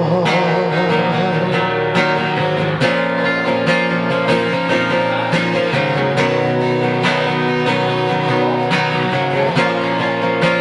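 Instrumental break of a Thai pop ballad: strummed guitar chords carry a steady rhythm, with a wavering held note fading in the first couple of seconds.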